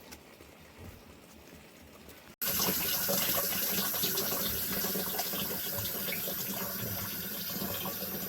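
Running water: after a faint stretch, a steady splashing rush of water starts abruptly about two seconds in and carries on evenly, like water pouring from a tap or pipe into a container.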